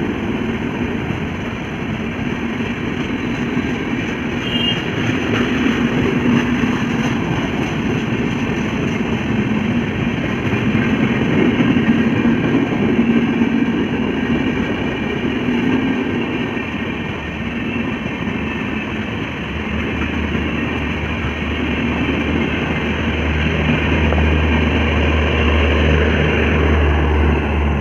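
Express passenger train rolling slowly over a level crossing, a steady continuous rumble of coaches running on the rails. A low steady hum joins about two-thirds of the way through.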